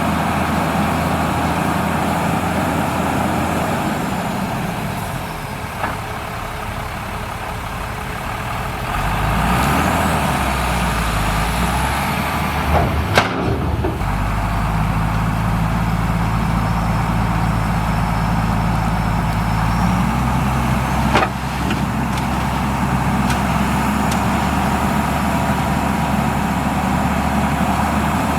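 Heavy diesel engine of earthmoving machinery running steadily. It eases off for a few seconds, then picks up again about a third of the way in. Two brief sharp sounds cut across it, one near the middle and one later.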